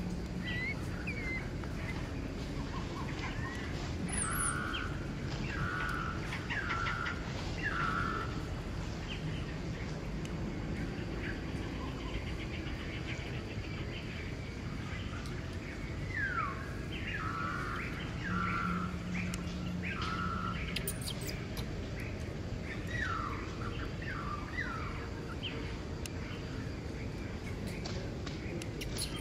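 A bird calling in short runs of three or four notes about a second apart, repeated several times over a steady outdoor background hum.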